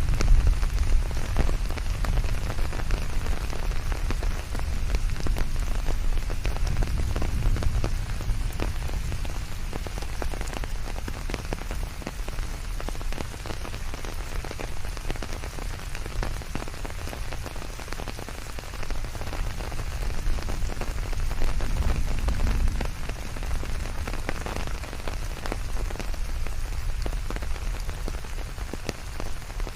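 Steady rain falling, with many separate drops pattering over a deep low rumble. The rumble swells about a quarter of the way in and again a little past two-thirds of the way through.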